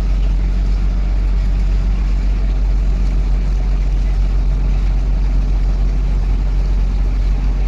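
An engine running steadily at constant speed: a low, even drone with no change in pitch.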